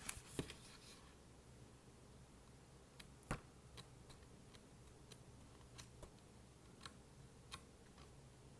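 Light fingertip taps and clicks on a book, quiet and sparse: a short rustle with a few taps at the start, one sharper tap about three seconds in, then faint ticks spaced less than a second apart.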